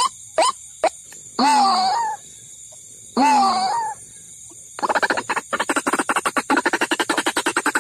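White-breasted waterhen (ruak-ruak) calls played as a bird lure: two short clipped calls, then two longer calls of about a second each, then from about five seconds in a fast, continuous run of rapid pulsed calls.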